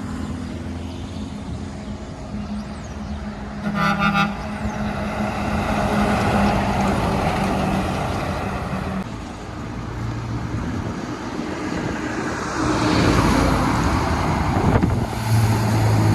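Heavy trucks passing on a road, engines running, with one short horn toot about four seconds in.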